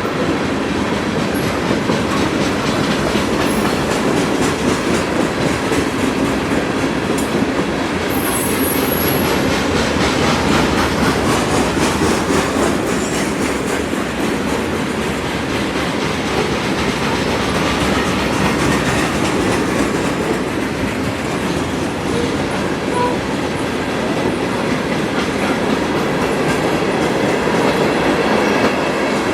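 Freight train cars rolling past at steady speed, a continuous rumble and rattle with the wheels clicking over rail joints, and a brief high wheel squeal about eight seconds in.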